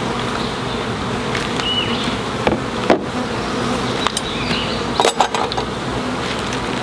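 A swarm of honeybees buzzing steadily around an open hive, with a few sharp knocks about midway and again later.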